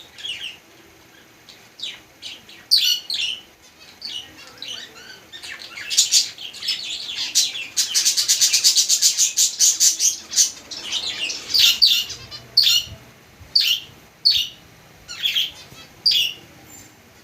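Small birds chirping in short high calls, breaking into a dense rapid run of chirps for a few seconds midway, then single chirps about once a second.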